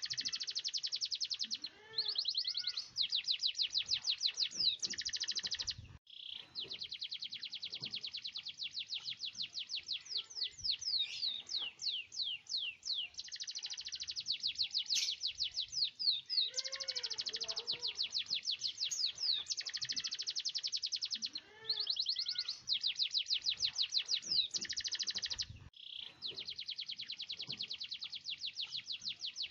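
Domestic canary singing in long rolls: rapid trills of repeated high notes strung together almost without pause. The song breaks off briefly about six seconds in and again near the end.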